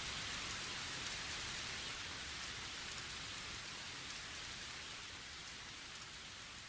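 Steady rain falling, slowly fading out.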